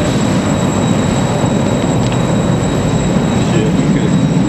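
Slow, heavy freight train passing close by inside a rail tunnel: a loud, steady rumble of wheels on rails.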